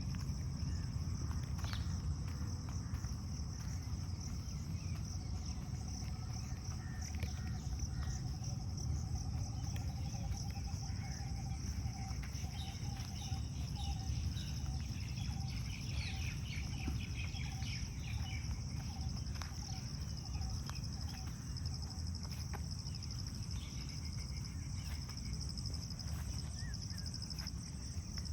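Insects trilling in a steady high drone over a low background rumble, with birds calling over it. Through the middle a run of short notes repeats at a lower pitch, and higher chirps come and go.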